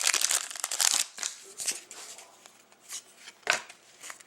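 Hockey trading cards being handled: a dense crinkly rustle for about the first second, then scattered soft slides and flicks as the cards are sorted through.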